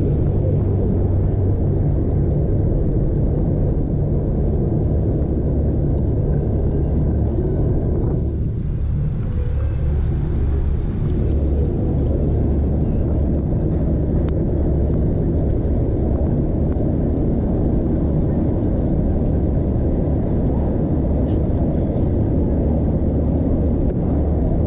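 Steady low wind rumble on a chest-mounted action camera's microphone, mixed with road noise from a bicycle being ridden. It eases for a moment about eight seconds in.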